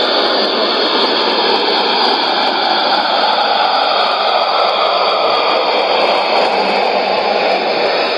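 Shortwave AM reception on 5905 kHz through a Sony ICF-2001D receiver: a steady rushing, hiss-like test transmission from MBR with faint steady whistles, mixed with interference from a co-channel China Radio International broadcast.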